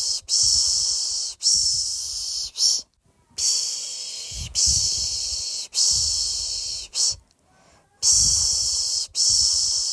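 Rhythmic 'shh' shushing to lull a baby to sleep: three long shushes and one short one, then a brief pause, the pattern repeating about every four seconds.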